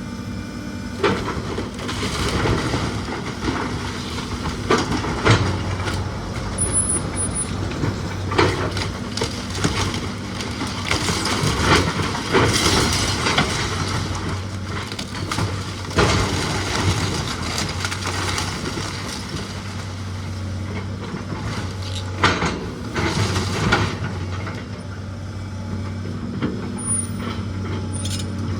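A heavy machine's engine running steadily under repeated cracking, splintering and crashing of old wooden house framing being torn apart.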